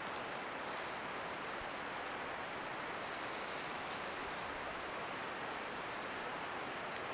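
Steady, even hiss with no distinct events, and a faint thin high-pitched tone running through it.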